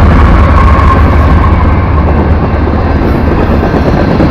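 BNSF freight train passing close by: a loud, steady low rumble from the locomotives and from the intermodal container cars' wheels on the rails.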